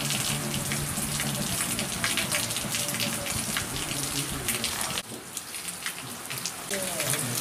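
Heavy rain falling steadily on trees and foliage, with many fine drop spatters; it gets quieter about five seconds in, then picks up again near the end.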